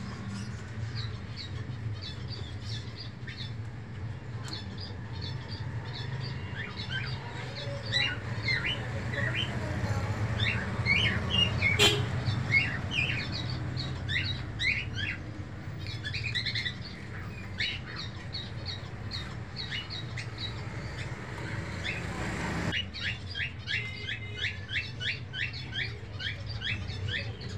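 Small birds chirping: many short, high peeps in bursts, thickest around the middle, then a quick regular run of them near the end. A steady low hum runs underneath, and there is one sharp click about halfway through.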